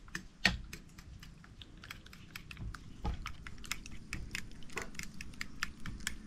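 A quick, irregular run of light clicks and taps, growing denser after about three seconds.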